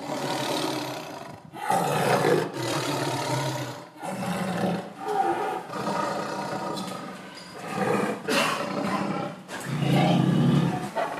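Male lion roaring, a run of calls each about one to two seconds long with short breaks between them.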